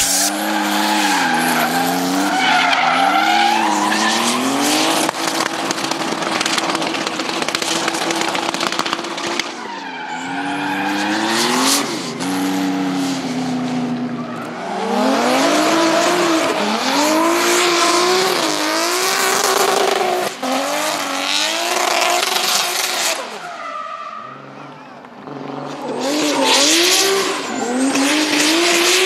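Turbocharged BMW drift car engine revving hard and repeatedly up and down while the tyres squeal and skid through slides. The sound dips briefly about ten seconds in and goes quieter for a moment about three-quarters of the way through.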